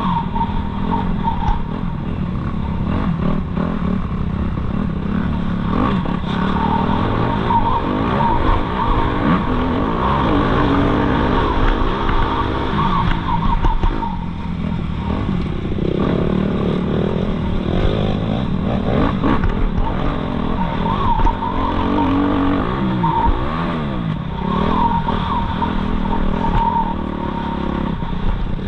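Suzuki RM-Z250 four-stroke single-cylinder motocross engine being ridden hard, revving up and down continuously as the throttle opens and closes and the gears change.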